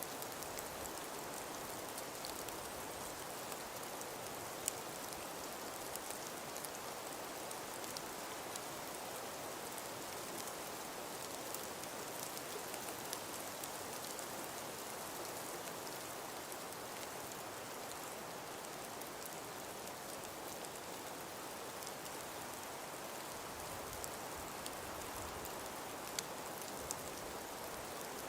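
Snowstorm ambience: a steady hiss of wind and falling snow, with many fine ticks of snow grains striking and an occasional sharper tick.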